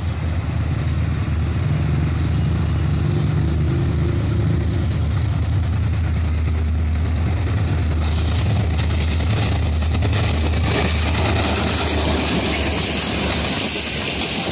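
Diesel locomotive hauling a passenger train as it approaches, with a steady deep engine drone. From about eight seconds in, rail and wheel noise builds as the train draws near and passes close.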